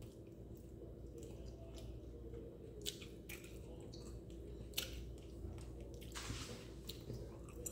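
Close-up mouth sounds of a person eating: soft chewing with a few sharp smacks and clicks spread through, over a steady low hum.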